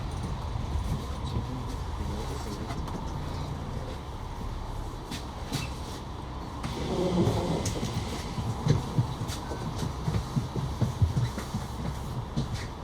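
Steady low rumble of a moving vehicle, with scattered knocks and clicks.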